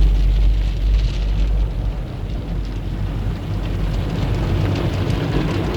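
Tunnel car wash machinery and water spray hitting the vehicle, heard from inside the car: a steady low rumble with a hiss like heavy rain on the body. The rumble is heaviest in the first second or two, then eases.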